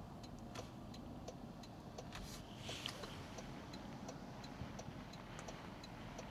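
A car's indicator clicking steadily, about two to three faint ticks a second, over the low hum of the car.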